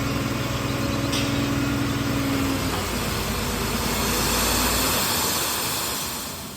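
Stone-delivery truck's engine running steadily, then a broad rushing noise that swells about three seconds in and fades away near the end.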